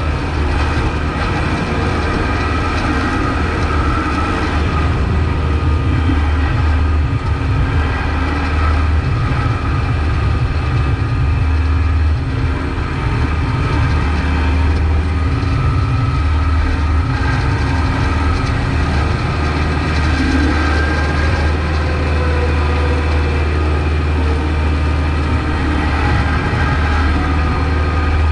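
Kubota MX5200 tractor's four-cylinder diesel engine running steadily with a low, even drone while plowing snow.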